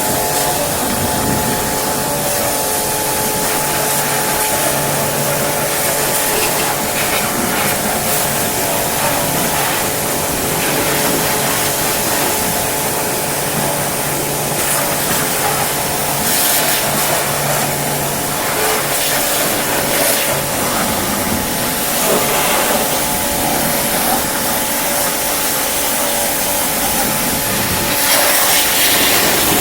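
Pressure washer running and spraying water: a loud, steady hiss of the water jet over the steady hum of the washer's motor and pump.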